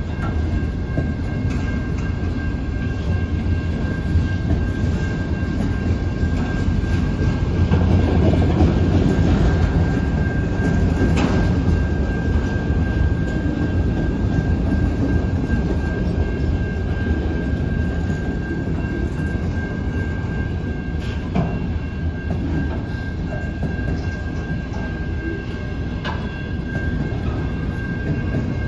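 Freight train of autorack cars rolling slowly past: a steady low rumble of steel wheels on the rails, with a thin steady high whine and a few sharp clanks, three or four in all.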